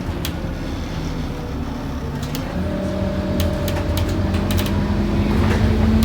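Scania N230UD OmniCity double-decker bus heard from on board, its diesel engine running under load. A whine steps up in pitch about two and a half seconds in, and the sound grows louder toward the end as the bus pulls away, with light rattles throughout.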